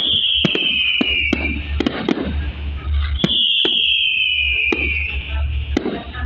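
Fireworks salute going off: a run of sharp bangs with echoing rumble after them, and two long whistles falling slightly in pitch, one at the start and one about three seconds in.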